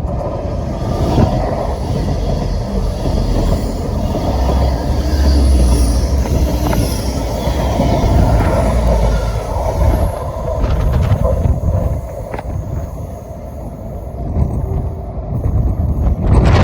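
Passenger train running past through the station: steady rumble of wheels on rail, heaviest in the middle and easing off near the end.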